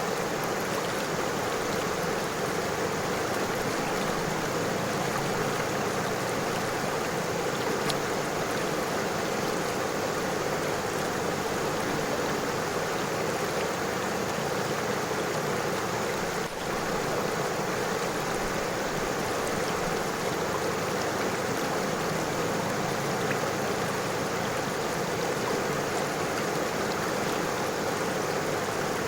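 River water flowing over stones: a steady, even rush of water that holds unchanged throughout, dipping briefly once about two-thirds of the way through.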